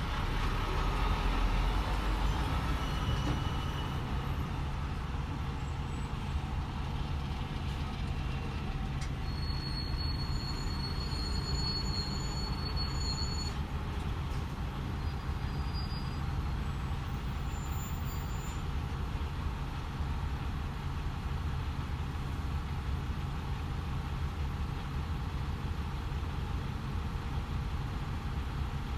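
DAF XF 510 truck's diesel engine running steadily as it drives, heard from inside the cab as a constant low hum under even road noise. It is a little louder in the first couple of seconds.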